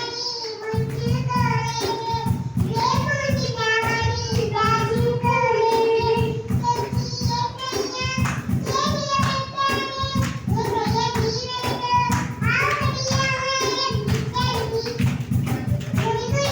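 Children singing a song over backing music with a steady beat.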